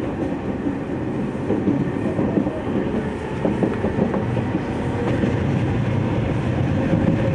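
Running noise inside a JR East 209 series electric train at steady speed: a dense rumble of wheels on rail with light clickety-clack, and a faint steady tone from its MT68 traction motors.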